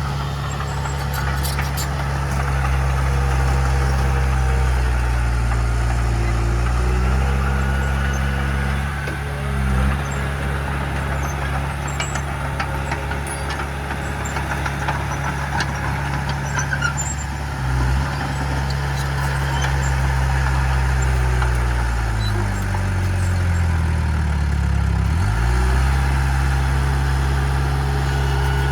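Heavy earthmoving machine's diesel engine running steadily under load, its pitch dipping and climbing back up a few seconds before the end as the revs change.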